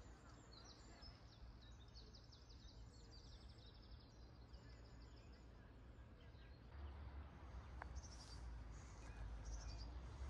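Faint small-bird chirps and rapid high trills over a quiet outdoor hiss. A low rumble grows louder from about two-thirds of the way through.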